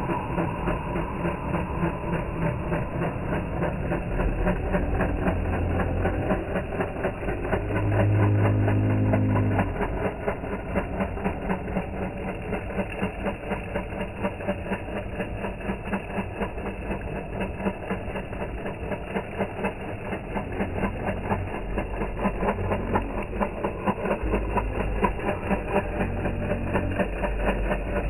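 Radio-controlled monster truck's motor running as it drives, a steady buzzing drone made of dense rapid pulses, with a louder stretch about eight seconds in.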